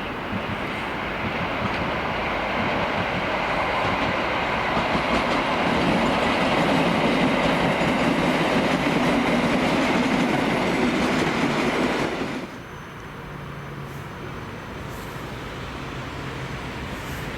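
A train passing close by. The noise builds over the first few seconds, holds steady, then drops off suddenly about twelve seconds in as the train clears.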